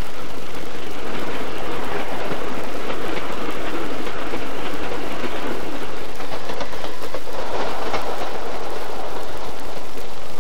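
A train running: a loud, steady rushing clatter.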